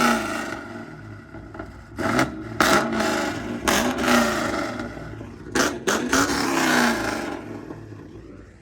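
Supercharged 6.2 L Hellcat HEMI V8 in a swapped Honda Accord, revved in a series of sharp blips, about five, the last held longest before the engine settles back; really loud.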